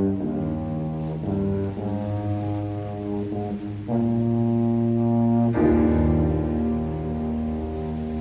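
Student wind ensemble with brass to the fore playing sustained chords, each held for one to two seconds before moving to the next.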